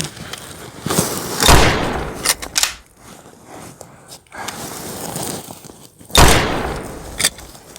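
Two loud gunshot-like blasts, the first about one and a half seconds in and the second about five seconds later, each fading out over about a second. Sharper clicks and knocks fall in between.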